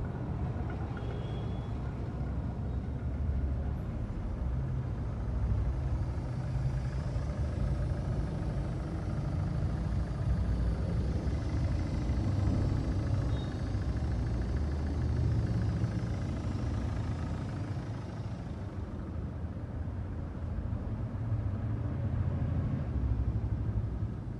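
Chevrolet Cruze engine running during an HHO carbon clean, with the HHO gas hose fed into its air intake: a steady low rumble that swells somewhat in the middle and eases near the end.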